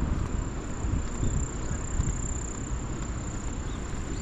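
An insect's steady, high-pitched continuous trill, like a cricket's, over a constant low rumble.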